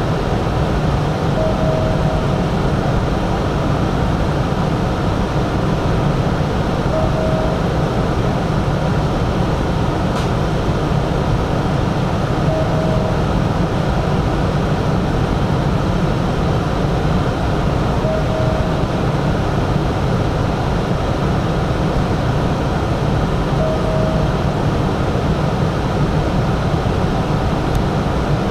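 Steady, even noise of a Hanshin 5500-series electric train, with a short beep that repeats about every five and a half seconds.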